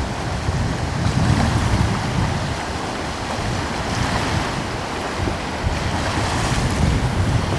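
Gentle ocean waves washing steadily, with a light coastal breeze. The surf swells a little about a second in and again near the end.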